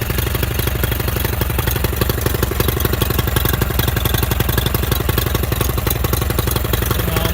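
2004 Mercury 25 hp two-stroke outboard motor running steadily with a fast, even beat, its carburetor freshly cleaned to cure a refusal to idle.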